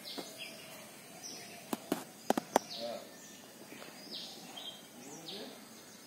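A bird calling over and over, short high chirps that sweep downward, one every second or so. A few sharp clicks about two seconds in are the loudest sounds.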